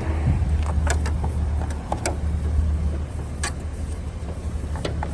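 Chevrolet SSR's 5.3-litre V8 idling with a steady low hum, with a few sharp clicks and knocks as the hood is released and opened.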